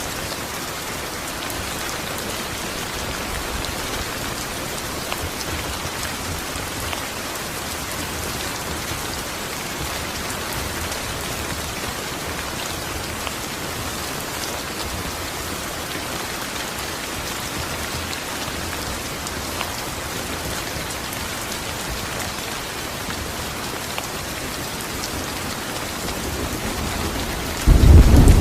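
Steady rain falling on a surface, an even hiss with scattered drop patter. Just before the end, a loud, deep rumble of thunder breaks in suddenly.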